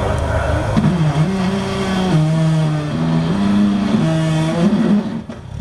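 Off-road competition truck's engine running hard under load, its pitch holding and then stepping up and down as the throttle is worked, and falling away near the end.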